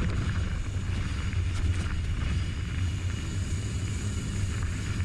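Mountain bike riding down a dirt trail: a steady low rumble of tyres and ride noise on the bike-mounted or helmet camera.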